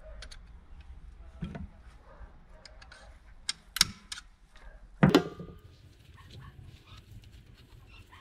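Metal engine parts and tools knocking and clinking as they are handled during a motorcycle engine teardown. The knocks are scattered, with the loudest about five seconds in ringing briefly like struck metal.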